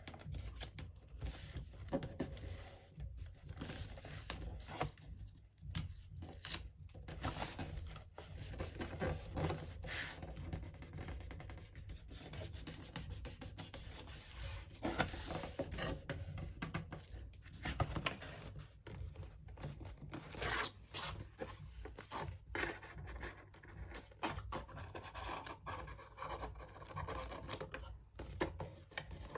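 Paper and thin cardboard being rubbed, scraped and handled, with scattered small taps and clicks.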